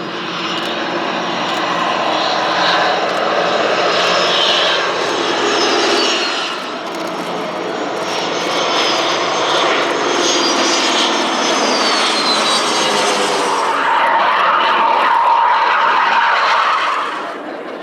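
Jet aircraft engine roar with high whines that glide downward in pitch. It swells loudest in the last few seconds, then drops away sharply near the end.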